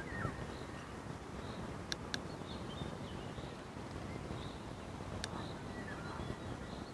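Faint bird calls over a low steady rumble, with a few sharp clicks about two seconds in and again after five seconds.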